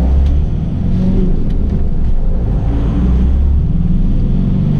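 2012 Ford Transit's diesel engine pulling away in first gear: a steady low rumble with its pitch shifting a little as it takes up load.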